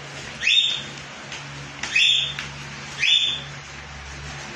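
A bird chirping: short rising chirps about every second and a half, three in a row, over a low steady hum.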